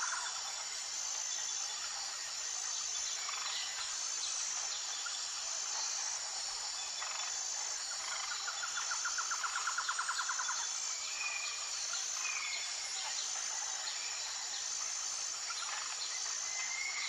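Forest ambience: a steady high insect drone with a pulsing note, with short bird chirps now and then. A rapid trill lasts about two seconds near the middle.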